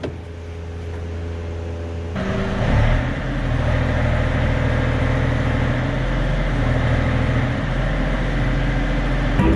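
Yanmar mini excavator's diesel engine running. About two seconds in it comes under hydraulic load as the blade is worked, and the sound grows louder and fuller, with a hiss over the engine note. There is a short knock near the end.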